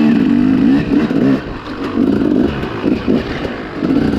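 Small dirt bike engine running under throttle, its pitch rising and falling as the throttle is worked, easing off briefly twice.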